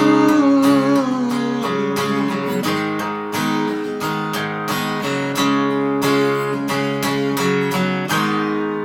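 Acoustic guitar strumming the closing chords of a folk song, with a held sung note wavering and sliding down in the first couple of seconds. The final chord rings out and fades near the end.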